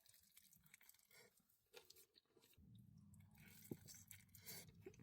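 Person chewing food close to the microphone, with scattered small crunches and wet mouth clicks. A low rumble joins about halfway through.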